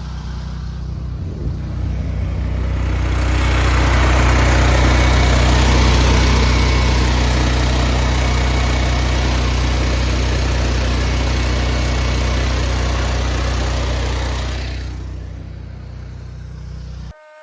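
Gas-engine pressure washer running steadily, with the loud hiss of the wand spraying soap solution in low-pressure downstream mode from about 3 to 15 seconds in. The sound cuts off abruptly near the end.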